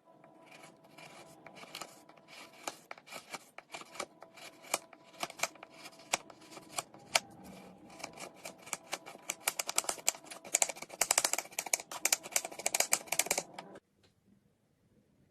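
Close-up crisp clicking and crunching, irregular at first, then denser and louder before stopping suddenly near the end.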